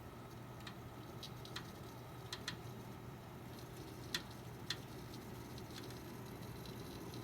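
Computer making a weird crackling sound: short, sharp crackles at uneven intervals, about one a second, over a steady low hum. The loudest crackle comes about four seconds in.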